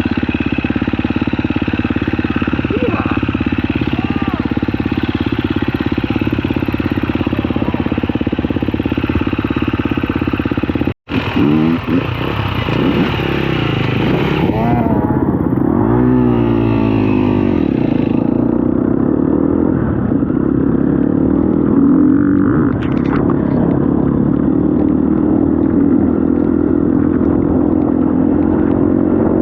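Dirt bike engine running under throttle, its revs rising and falling as it rides, with the sound cutting out for a moment about eleven seconds in.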